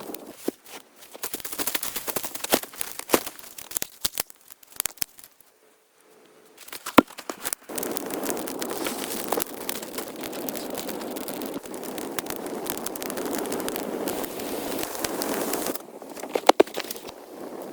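Crackling with scattered sharp snaps, broken by a short silence about six seconds in, after which a steady rushing noise runs under the snaps.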